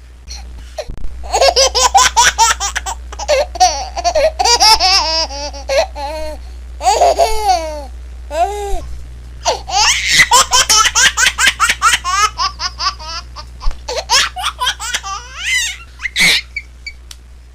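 A baby laughing in long bouts of rapid, repeated giggles with a few high squeals, pausing briefly about halfway through. A steady low hum runs underneath.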